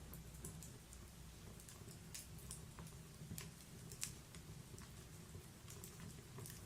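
Wood fire crackling softly in a fireplace: irregular small pops and snaps over a low steady rumble, with one sharper pop about four seconds in.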